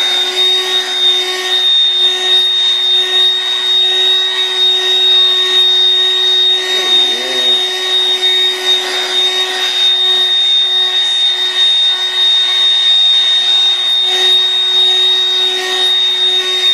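Dirt Devil portable vacuum cleaner running steadily with a high motor whine as it picks up dirt.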